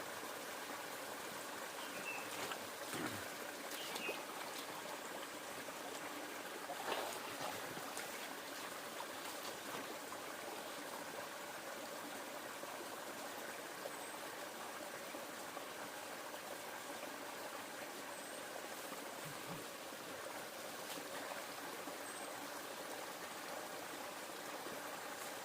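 River water flowing and trickling steadily, with a few faint high chirps now and then.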